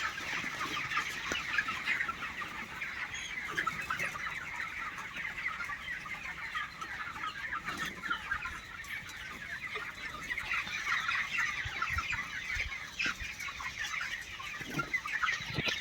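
A large flock of chickens calling continuously, many short calls overlapping into a steady din.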